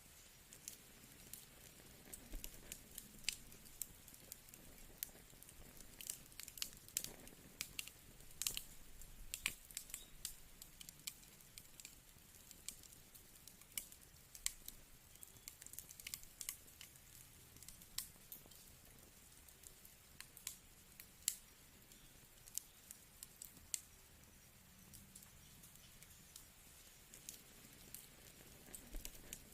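Wood fire in a fireplace crackling: many irregular, sharp pops and snaps over a faint steady hiss. The pops come thickest a quarter to a third of the way in.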